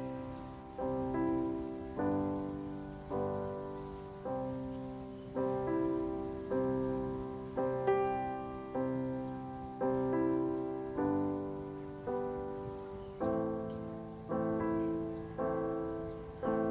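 Background music: a slow solo piano piece, a note or chord struck about once a second, each ringing and fading before the next.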